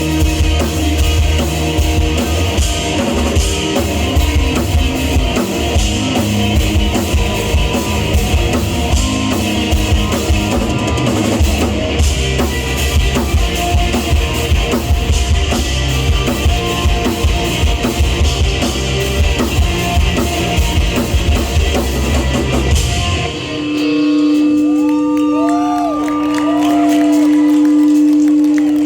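Live rock band with drum kit, bass and guitars playing a song, which stops abruptly about 23 seconds in. After it a steady held tone rings on, with short calls from the crowd over it.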